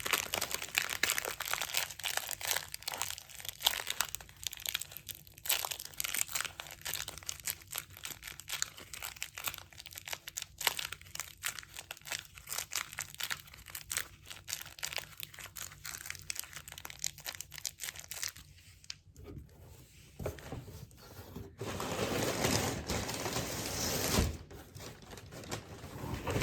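Plastic packaging crinkling and tearing as it is handled, with many small crackles. Later comes a louder, continuous rustle that ends in a single thump.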